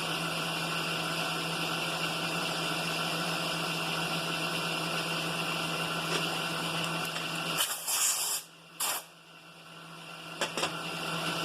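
Steady hum of a shop machine's electric motor, which stops about two thirds of the way in, right at two short bursts of hissing.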